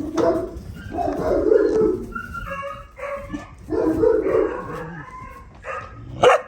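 Two-and-a-half-month-old puppies barking and yelping, with short pitched calls following one another. A sharp knock comes near the end.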